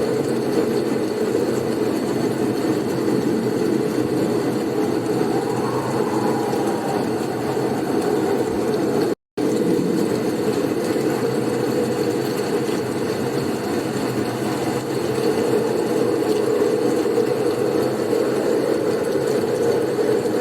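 Steady blizzard wind noise, a dense even rush strongest in its low-middle range, with a split-second dropout to silence about nine seconds in.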